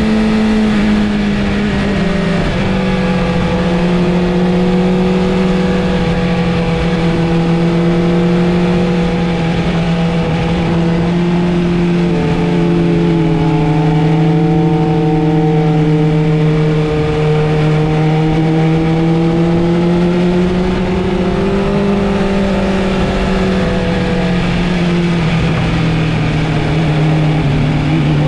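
Sport motorcycle's inline-four engine running hard at fairly steady revs, its pitch drifting gently up and down.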